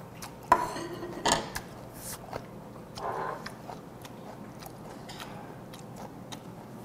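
Close-up eating sounds: a man chewing a mouthful of raw silchi, with a sharp click about half a second in and a few lighter clicks of wooden chopsticks against the dishes.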